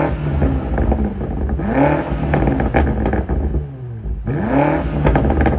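BMW X5 M F95's 4.4-litre twin-turbo V8 revved up and let fall three times: once right at the start, again about 2 s in and about 4.5 s in. Each time the revs drop, the exhaust pops and crackles. These are the factory M Performance burbles, coded on with the stock catalysed exhaust.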